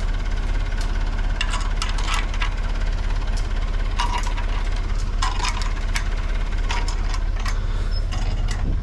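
Backhoe diesel engine idling steadily, with scattered sharp metal clinks and clanks from tools working on bolts.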